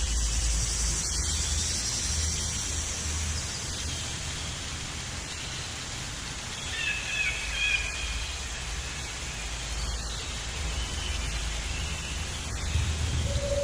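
Steady outdoor noise with a low rumble, and a few faint bird calls about halfway through.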